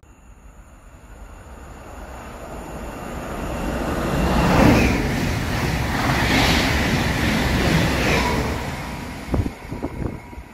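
Passenger train passing at speed close by. Its noise builds over about four seconds, holds while the carriages go past, then fades, with a few sharp clicks near the end.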